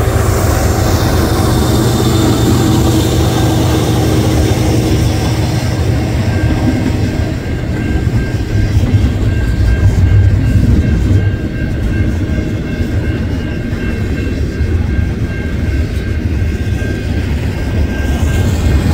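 A long container freight train passing close by: a loud, steady low rumble of wheels on rail and diesel locomotives under way.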